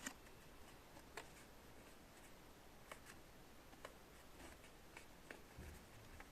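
Near silence: room tone with about half a dozen faint, scattered light clicks.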